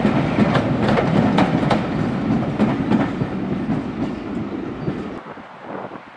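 Railway passenger coaches rolling past, their wheels clicking over rail joints, the sound fading as the last coach goes by. It cuts off suddenly about five seconds in to a much quieter outdoor sound.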